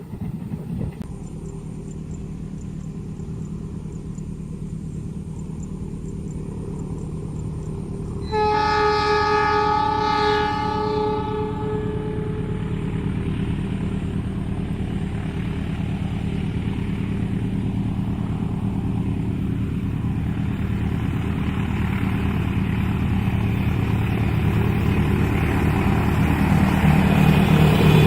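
Diesel locomotive approaching, its engine a steady low drone that grows louder toward the end. About eight seconds in it sounds its horn, one chord-like blast of about three seconds.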